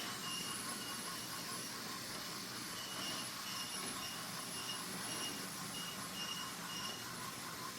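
Several small electric toy-train motors running at once on wooden track, a steady whirring with high-pitched whines that come and go as the trains move around the layout.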